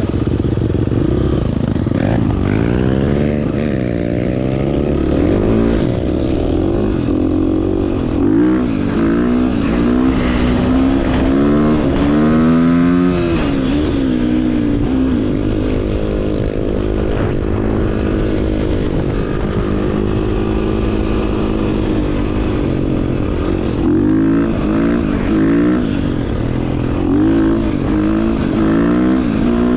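Dirt bike engine revving up and down as it is ridden, the pitch rising and falling with each twist of the throttle and gear change, steadier for a while in the middle.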